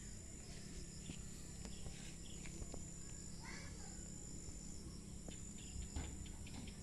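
Insects shrilling in a steady, high-pitched drone, with scattered faint clicks and one short call about halfway through.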